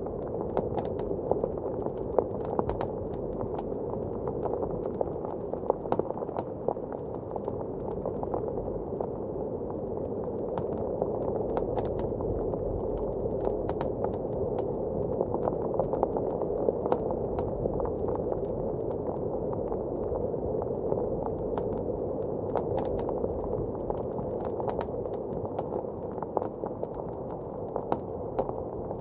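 Wood fire crackling in a fireplace, with scattered sharp pops and snaps throughout, over the steady rushing of a blizzard wind.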